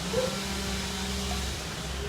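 Engine of the tree crew's machinery revving up and holding steady for about a second and a half, then dropping back, over a steady low drone.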